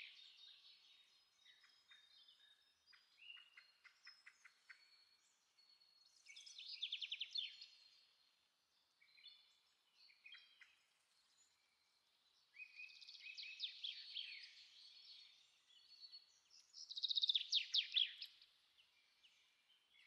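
Wild songbirds singing: phrases of rapid trilled notes come every few seconds, with softer scattered chirps between them.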